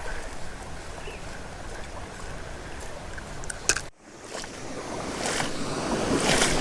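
Steady rush of a creek and waterfall, with a few sharp clicks. It breaks off briefly about four seconds in, then comes back and swells steadily louder.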